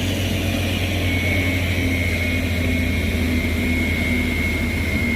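Heavy diesel truck engine running with a deep, steady drone. A thin high whine comes in about a second in and holds steady.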